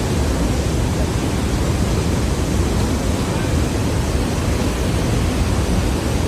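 Steady rush of heavy falling water from the Rhine Falls, a large waterfall, an even unbroken noise with a strong low rumble.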